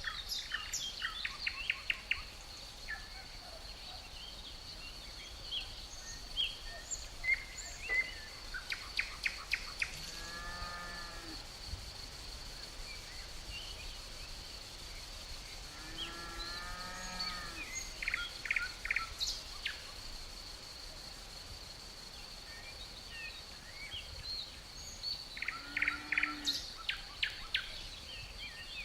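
Forest ambience: crickets trilling in a steady high tone, with songbirds singing in short runs of quick notes. Two longer, lower calls come about ten and sixteen seconds in.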